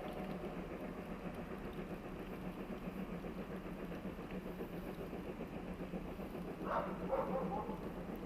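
Steady low hum of a distant train, with a couple of short animal calls near the end.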